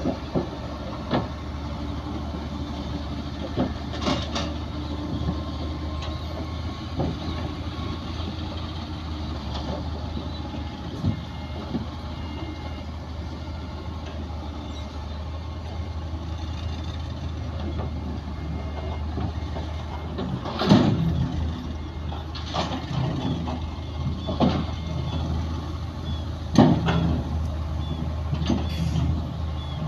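Heavy diesel earthmoving machinery running steadily, with scattered metallic clanks and knocks that come louder and more often in the second half.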